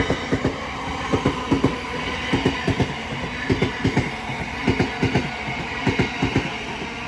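A Southeastern Class 707 electric multiple unit passing, its wheels clicking over rail joints in clusters of two to four beats about once a second.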